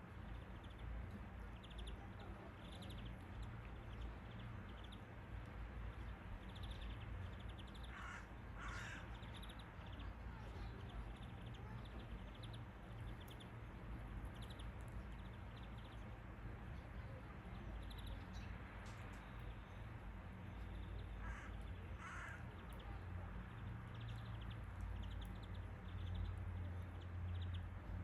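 Birds calling: short chirps repeat throughout, and twice a pair of louder, harsher calls stands out, about a third of the way in and again about three quarters of the way in.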